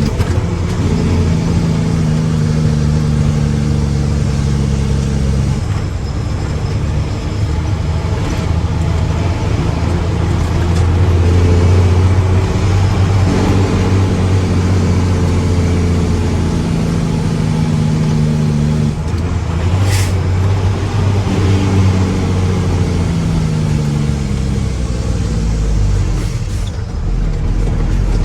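Mack truck's heavy diesel engine running, its speed rising and falling several times. There is one short sharp click about twenty seconds in.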